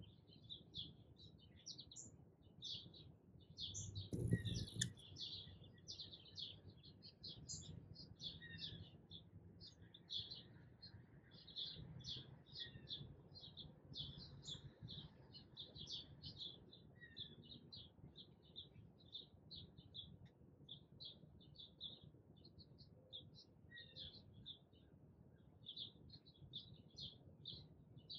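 Small birds chirping faintly and continuously, short high chirps several a second. A brief bump or knock comes about four seconds in.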